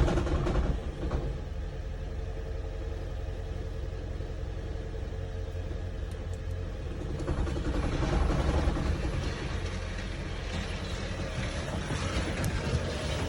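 2012 Lexus CT 200h's 1.8-litre four-cylinder petrol engine starting and running with a loud metallic rattle, getting louder about eight seconds in.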